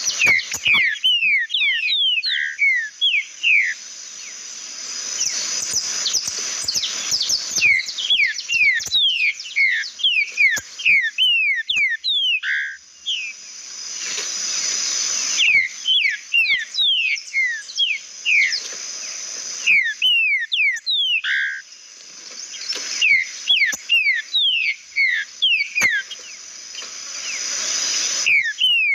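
Green-winged saltator (trinca-ferro) singing. It gives repeated phrases of loud, clear whistled notes, each note sliding down in pitch. Each phrase lasts a few seconds, with short pauses between.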